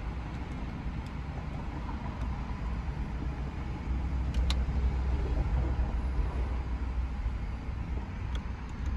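Steady low rumble of the 2005 Porsche 911 Carrera S's flat-six engine idling, heard inside the cabin. A light click sounds about four and a half seconds in as a dashboard button is pressed.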